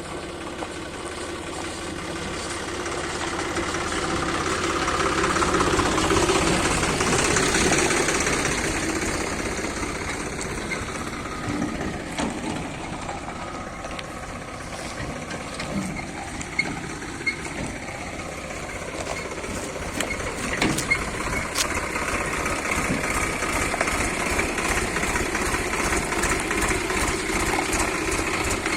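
Swaraj tractor's diesel engine running with a steady throb. It gets louder for a few seconds about six to eight seconds in, then settles, with a few short sharp knocks later on.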